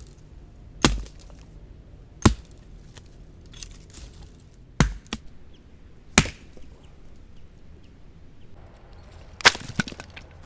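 A blade chopping into wood: five loud, sharp strokes at uneven intervals, with a few lighter knocks between them.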